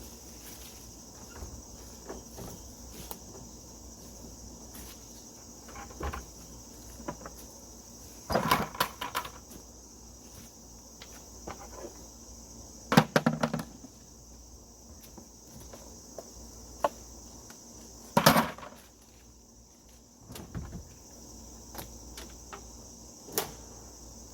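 Insects buzzing steadily in the background, broken by a few short clunks and clatters of things being handled and knocked, the loudest groups about a third, halfway and three quarters of the way through.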